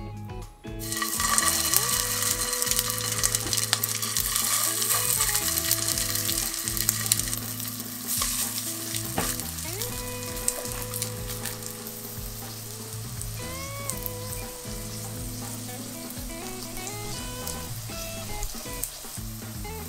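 Canned-mackerel patties frying in oil in a nonstick pan, searing over medium-low heat. A steady sizzle starts suddenly about a second in as the patties go into the pan, and eases a little over the following seconds.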